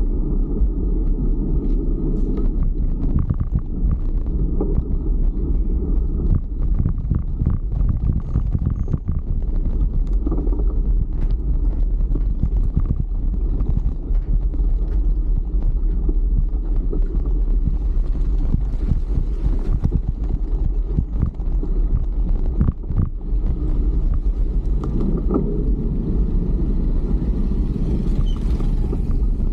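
Steady low rumble of wind buffeting a camera microphone on a moving bicycle, crackling throughout, with road and traffic noise mixed in.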